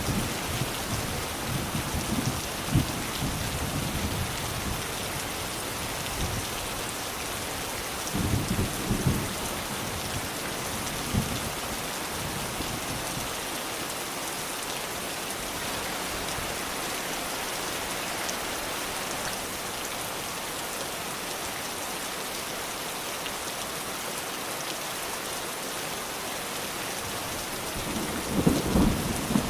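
Steady rain falling, with short low rumbles of thunder now and then: a few in the first seconds, a couple about a third of the way in, and more near the end.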